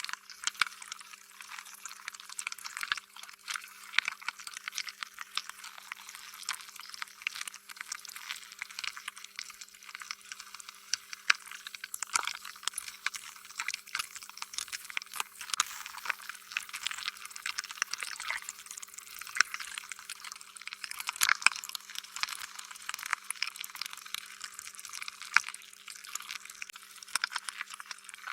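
Slime being squished and stretched: a continuous stream of wet, sticky crackles and pops, thin with no low end, with a few louder pops along the way. A faint steady hum sits underneath.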